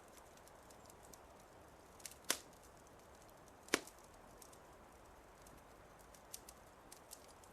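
Wood fire crackling in a fireplace: a soft, steady hiss with scattered small snaps and two sharp, louder pops about a second and a half apart, a little over two seconds in.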